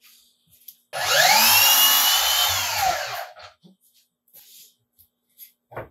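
Power saw making a short cut: the motor spins up with a rising whine, runs loud for about two seconds, then winds down. A few light knocks follow.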